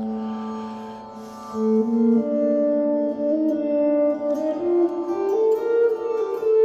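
Guitar playing a rising run of single notes from the B-flat major scale, which over the D drone makes D Phrygian. Under it a virtual tampura drones steadily on D and A. A held note fades out in the first second or so, and the run starts about a second and a half in.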